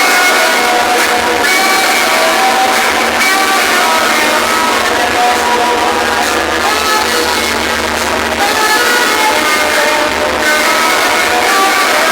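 Loud music blaring from a competition DJ sound-box speaker rig. A melody line sits over a harsh, distorted wash with almost no bass.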